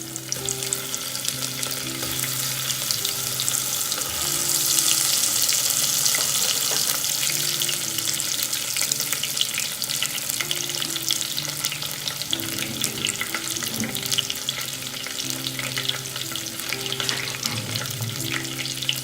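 Eggplant pieces sizzling as they fry in hot oil in a pressure cooker, the sizzle loudest from about four to seven seconds in.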